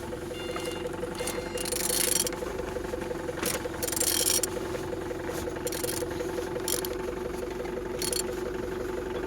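Used engine being turned over at the crankshaft: a steady whirring hum with several brief rasping scrapes. It rotates freely, without binding.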